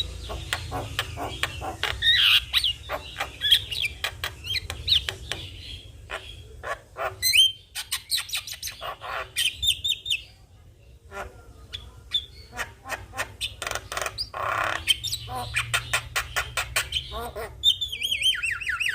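Javan myna singing: a varied, chattering run of rapid clicks, chirps and short whistles, ending in a falling series of slurred notes near the end.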